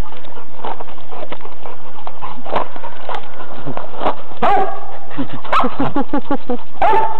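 Dog barking and yipping in play, a few short high calls in the second half.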